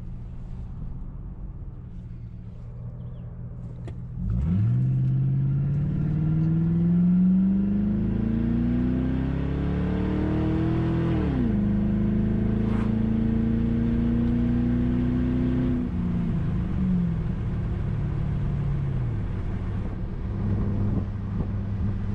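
2005 Mercury Grand Marquis V8 with a muffler-delete exhaust (catalytic converters into an H-pipe only), running low at first, then accelerating hard from about four seconds in. The pitch climbs steadily until a shift drops the revs about eleven seconds in, then holds steady before falling away as it lets off a little past the middle.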